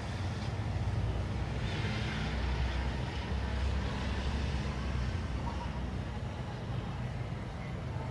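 Urban traffic ambience: a steady low rumble of vehicles, with one passing more loudly about two seconds in.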